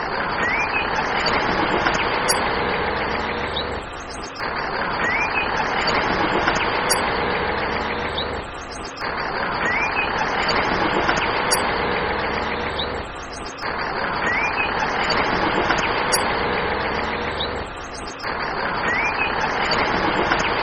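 Looped recording of a vehicle engine running, the same stretch of about four and a half seconds repeating over and over.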